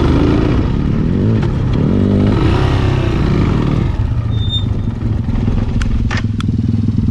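Off-road motorcycle engine running, its pitch rising and falling with the throttle over the first few seconds, then settling to a steadier note. A few sharp clicks come near the end.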